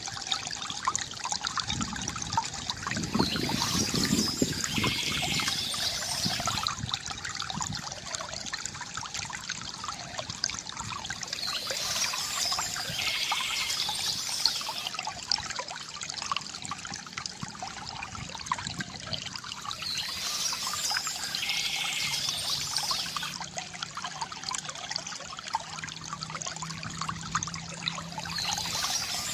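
Water trickling and gurgling steadily from a bamboo fountain spout, with bird chirping rising over it at regular intervals about every nine seconds.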